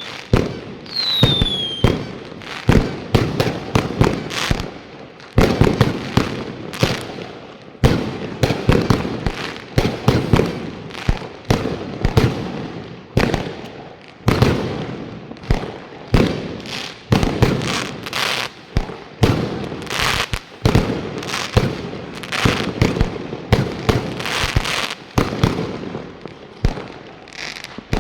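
Fireworks going off continuously: dense, rapid bangs and booms, one after another with no pause, and a falling whistle about a second in.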